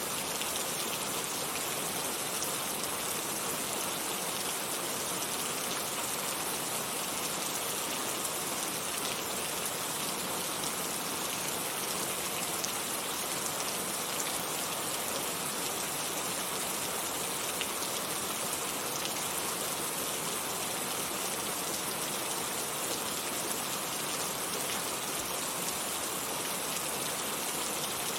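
Heavy rain falling steadily, an even dense hiss of raindrops with no let-up.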